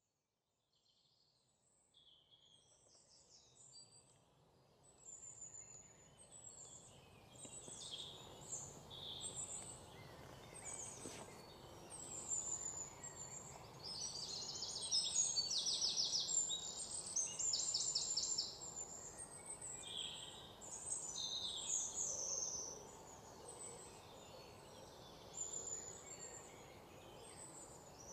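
Many songbirds chirping, with several rapid trills in the middle, over a steady background hiss; the sound fades in from silence over the first several seconds.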